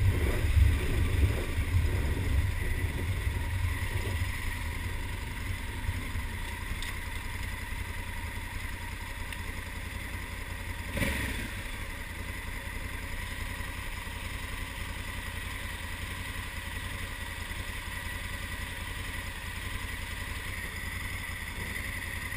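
Honda Africa Twin's parallel-twin engine and wind rush dying away as the bike slows in traffic, then the engine idling steadily at a stop. A brief knock sounds about halfway through.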